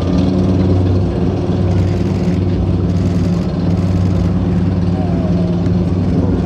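Heavy military vehicle's diesel engine running steadily as it drives past, a low, even engine drone.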